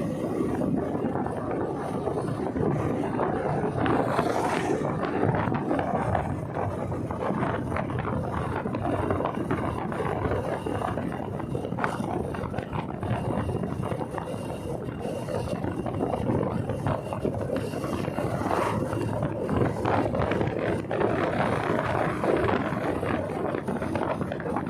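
Steady wind rush on the microphone mixed with the running noise of a motorcycle on the move.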